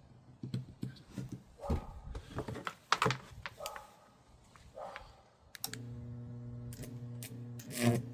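Clicks and clatter of parts being handled, then about two-thirds of the way in a microwave oven transformer is switched on and hums steadily at mains frequency. Near the end a sharp crackle cuts through the hum.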